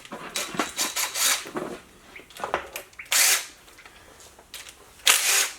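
Tool work on a Ford 302 V8 during teardown: a string of short bursts of tool noise, the two loudest about three seconds in and near the end.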